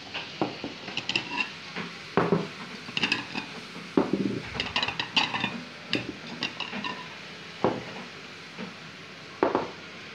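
Ceramic plates and metal cutlery clinking and clattering as they are set down one after another, a string of sharp knocks and short rings over a steady faint hiss.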